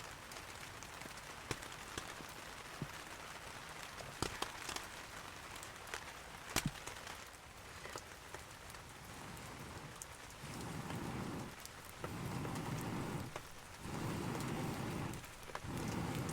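Steady rain falling, with scattered sharp drop ticks. From about two-thirds of the way in, four louder, lower rushing sounds, each about a second long with short gaps between them, rise over the rain.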